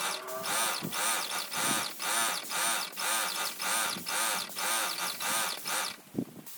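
Airless paint sprayer's pump running in a steady rhythm of about two strokes a second. It drops out briefly near the end with a single thump.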